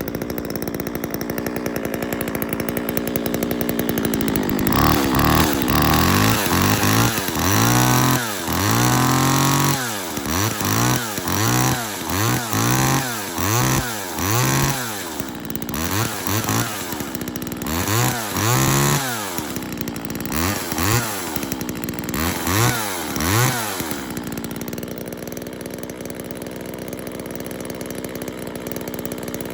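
Homelite XL two-stroke chainsaw idling, then revved in short blips about once a second for some twenty seconds, each rev rising and falling in pitch, before it drops back to a steady idle near the end.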